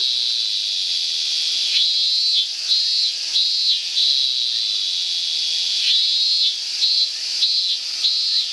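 Cicadas calling: a steady high-pitched drone, with bouts of short repeated phrases rising over it several times.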